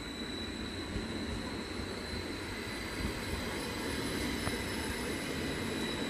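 Stadler FLIRT (NSB Type 74/75) electric multiple unit rolling steadily past, wheels running on the rails with a dense low rumble, a few light knocks and a faint steady high whine.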